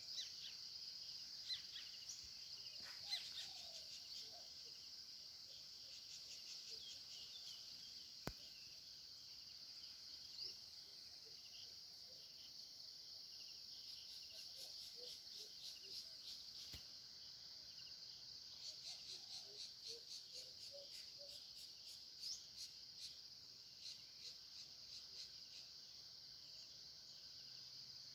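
Faint, steady, high-pitched insect chorus, with runs of rapid ticking in places and a few faint bird chirps.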